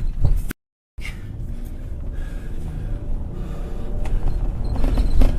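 Low steady rumble with a few light knocks on a body-worn camera's microphone, broken by a brief dropout of all sound about half a second in.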